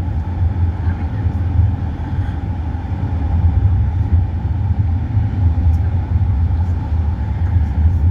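Steady engine and road rumble of a moving motor vehicle, heard from inside it.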